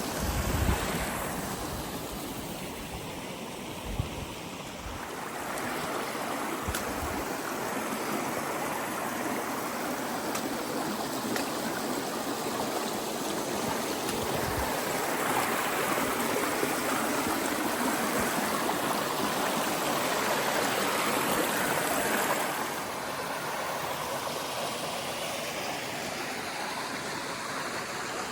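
Creek water running steadily, a continuous rushing that eases slightly about three quarters of the way through. A few low thumps on the microphone in the first several seconds.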